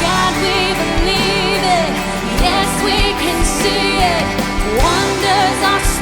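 Worship band music with a regular drum beat under sustained chords and a wavering melodic line, between sung lines of a worship song.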